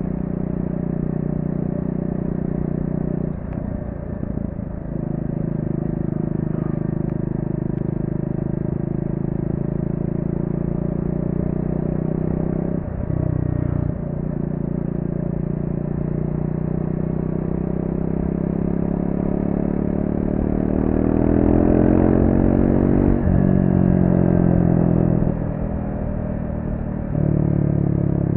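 Triumph Speed 400's single-cylinder engine through its stock exhaust, riding along with brief throttle lifts about 4 and 13 seconds in. The revs climb steadily for several seconds past the middle, then drop away and pick up again near the end.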